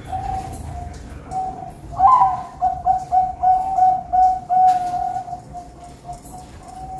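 Zebra doves (perkutut) cooing. A softer, steady coo runs throughout, and about two seconds in a louder, closer bird joins with a quick string of repeated coo notes that fades out near the end.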